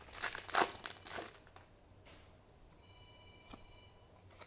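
Foil trading-card booster pack wrapper crinkling and tearing for about the first second and a half, then only quiet handling.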